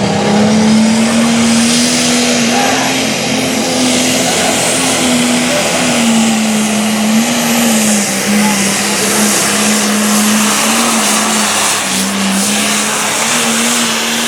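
Light limited pro stock pulling tractor's turbocharged diesel engine running at high revs under full load as it pulls the sled, its pitch wavering up and down, with a loud hiss riding over it.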